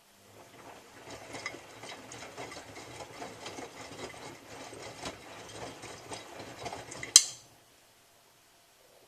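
Miele W3744 washing machine drum turning in the wash phase, laundry and water churning with an irregular clatter. About seven seconds in it ends with a sharp click and the drum falls quiet.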